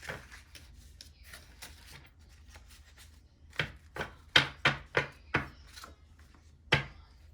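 A run of sharp taps or knocks on a hard surface: a few light clicks, then about eight loud ones in quick succession in the second half.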